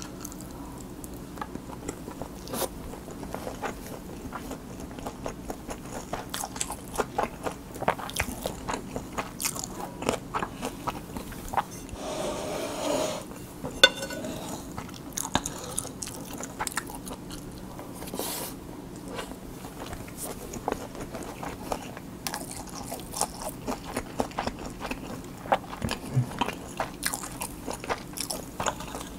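Close-miked chewing of Spam kimchi fried rice: a steady run of small wet clicks and crunches, with a wooden spoon scraping and knocking the bowl now and then, sharpest about fourteen seconds in.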